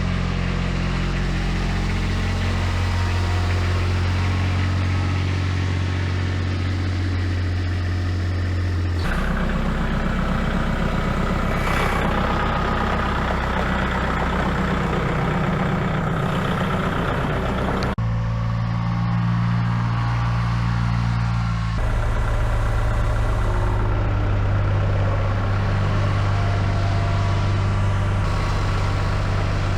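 An engine running steadily at idle, in several stretches that change abruptly, as if separate recordings of engines were cut together.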